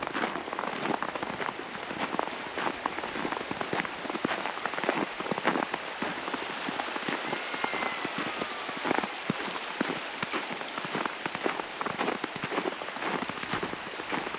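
Footsteps crunching in snow: a dense, irregular crackle with a stronger step every half second or so. A brief, faint falling whistle comes about halfway through.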